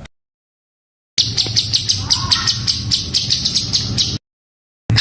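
Songbird singing a harsh, rapid-fire 'tembakan' phrase: a fast run of high-pitched chirps, about six or seven a second, that starts about a second in and cuts off abruptly after about three seconds. After a short silence another dense run begins near the end.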